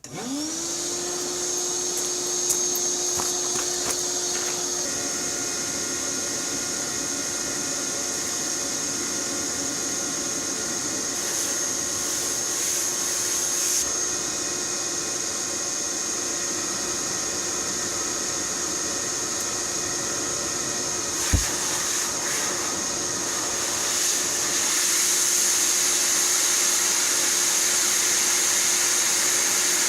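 Small shop vac switched on, its motor spinning up within the first second to a steady whine, then running and blowing air out of its outlet into an exhaust pipe to show where air escapes at a leak. A single sharp knock comes about 21 seconds in, and the running gets louder from about 24 seconds on.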